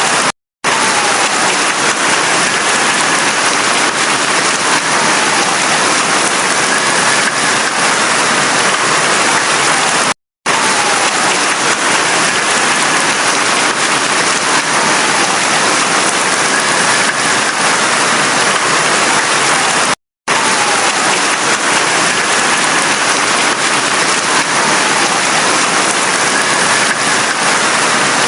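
Heavy rain falling steadily. The sound cuts out completely for a split second three times, about ten seconds apart.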